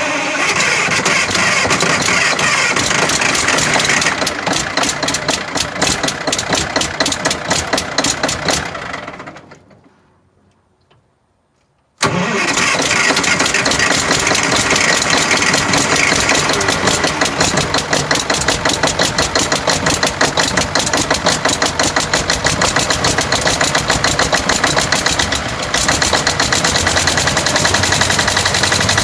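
Tub grinder's engine, just fired up through its newly fitted exhaust, running with fast even firing pulses. About nine seconds in it winds down and stops, then after a short silence it is running again, cutting in abruptly about twelve seconds in.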